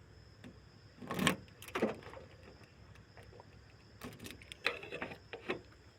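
A few short clicks and light knocks from handling things inside a parked car with its engine switched off, about a second in, near two seconds and several more from about four seconds on.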